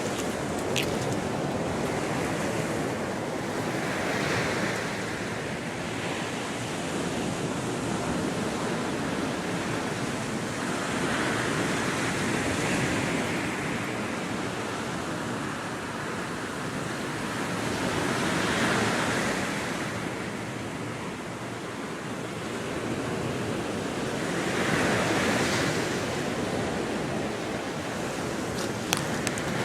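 Gulf of Mexico surf: small waves breaking and washing up the beach, a steady hiss that swells with each wave about every six to seven seconds.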